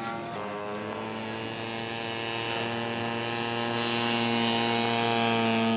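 Radio-controlled scale model airplane's engine and propeller running at a steady pitch in flight, getting louder after about three seconds as it comes closer.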